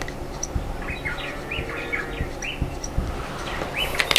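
Birds chirping: a steady run of short, repeated chirps over a low background rumble, with a few soft low knocks.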